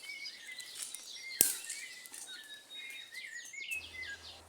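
Small wild birds chirping, many short, quick calls overlapping. One sharp click cuts in about a second and a half in.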